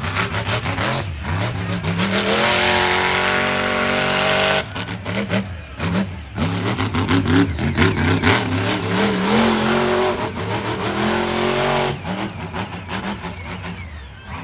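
Monster truck engine revving hard under full throttle, its pitch climbing. It backs off suddenly about four and a half seconds in, then revs up and down again for several seconds before easing off near the end.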